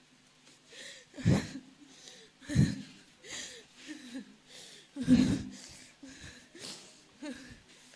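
A person breathing hard and noisily in a quick run of short, forced breaths, nearly two a second. Three of them are much louder, at about one, two and a half, and five seconds in.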